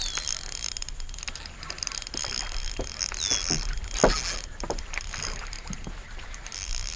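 Scattered knocks and taps on a small skiff while a hooked fish is played on rod and reel, the loudest knock about four seconds in.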